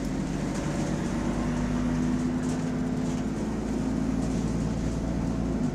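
A bus engine running with a steady drone over a low rumble. The bus has an exhaust leak.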